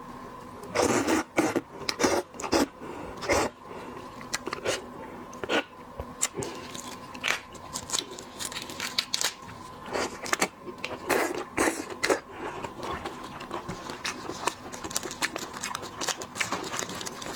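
Irregular crackling, clicking and scraping of shellfish shells being cracked and peeled by hand, mixed with eating sounds, loudest in clusters about a second in and again about ten seconds in. A faint steady hum sits underneath.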